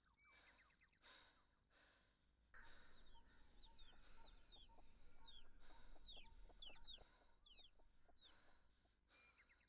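Faint bird chirping: many quick, high peeps, each falling in pitch, coming thickest from about two and a half seconds in until about eight seconds, over a quiet background.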